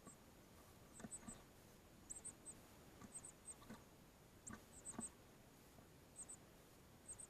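Faint, very high chirps from a young songbird, in quick clusters of two or three about once a second. A few soft knocks are heard among them.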